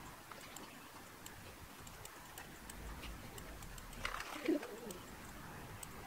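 A bird cooing briefly, about four seconds in, over faint scattered clicks.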